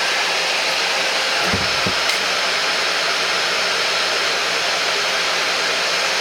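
Hoover Powerdash Go Pet carpet spot cleaner's suction motor running steadily, with an even whooshing hum.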